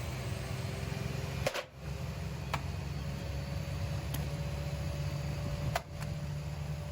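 Washing machine running with a steady low hum, broken by a few sharp clicks about one and a half, two and a half, four and six seconds in.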